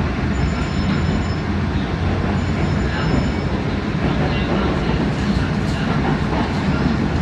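Running noise of the WEST EXPRESS Ginga, a 117-series electric train, heard from inside the carriage: a steady rumble of wheels on the track and car body in motion.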